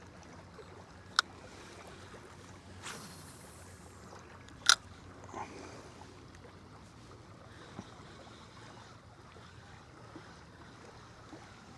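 Faint water and wind around a kayak, broken by two sharp clicks or knocks against the boat or gear, one about a second in and a louder one near the middle, with a brief swish between them.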